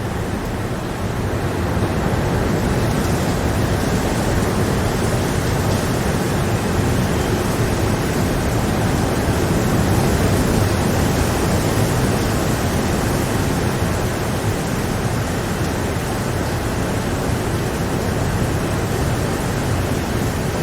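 Steady rain, a dense even hiss with a low rumble, growing slightly louder over the first couple of seconds.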